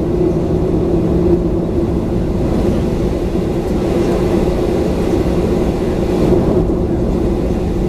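Cabin hum of a Boeing 737-900's CFM56 jet engines running steadily, heard from inside the passenger cabin as a low rumble with a steady droning tone.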